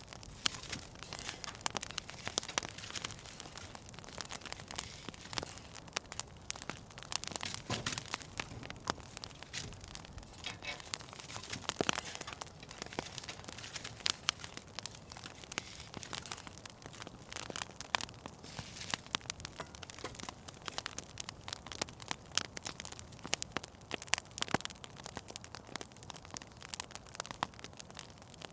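Wood fire crackling in a fireplace, with a steady stream of small irregular pops and snaps and a few sharper ones.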